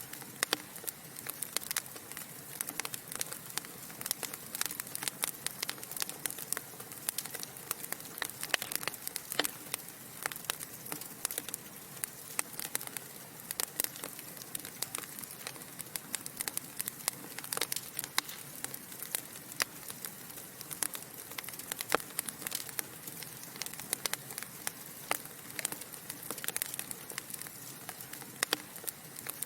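Wood fire in a fireplace crackling: a steady soft hiss with many sharp irregular pops and snaps, several a second, from the burning logs.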